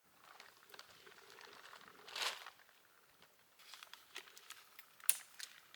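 Rustling and crinkling with scattered sharp clicks, a louder crackly rustle about two seconds in and a sharp snap about five seconds in.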